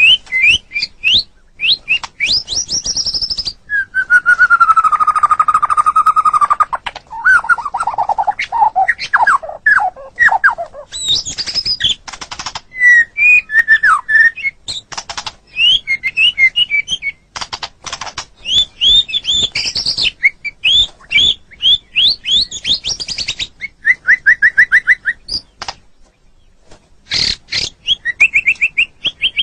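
White-rumped shama (murai batu) singing a loud, varied song of quick rising and falling whistles, with a long slightly falling buzzy whistle about four seconds in, a run of descending notes, a fast trill near the end, and sharp clicking notes between phrases.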